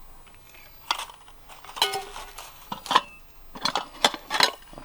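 Metal camping pots and lids from a nested cookware set clinking and knocking together as the pieces are handled and taken apart: several sharp clinks, some ringing briefly.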